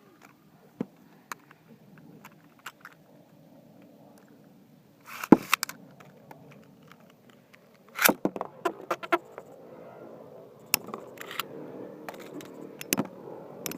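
Two Beyblade spinning tops launched with a zip from the launchers, about five and eight seconds in, then spinning, scraping and clicking as they clash in a plastic Tornado Ridge stadium.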